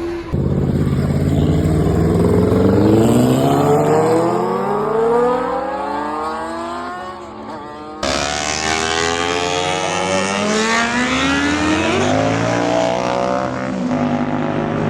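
Motorcycle engine accelerating, its pitch rising steadily for several seconds. The sound cuts abruptly about eight seconds in to an engine rising in pitch again, dipping briefly, then running steadily.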